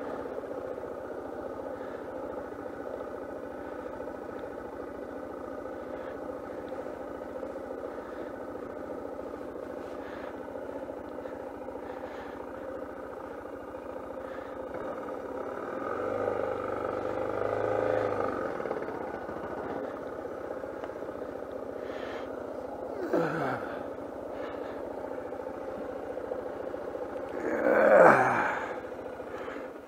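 Suzuki DR650 single-cylinder engine running at low speed, swelling briefly in the middle. Two quick blips fall away sharply in pitch, the second and louder one near the end, and the engine then cuts out.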